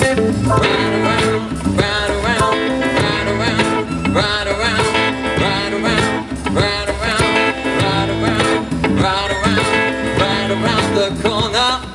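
Live band playing an instrumental groove with electric guitar and drums, a bending lead line over a steady beat.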